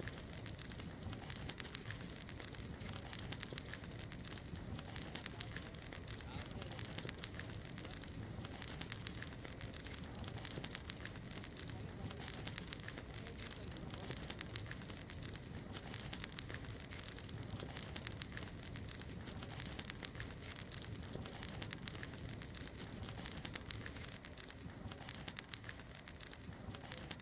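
Wood bonfire crackling, with a constant run of small snaps and pops over a low rumble of burning.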